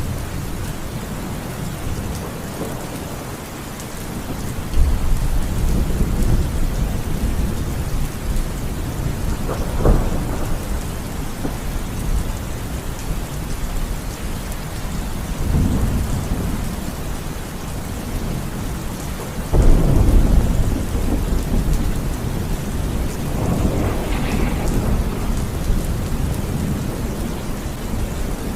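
Thunderstorm: steady heavy rain with repeated rolling thunder. A rumble builds about five seconds in, a sharper crack comes near ten seconds, and the loudest peal breaks about twenty seconds in, with more rumbling after it.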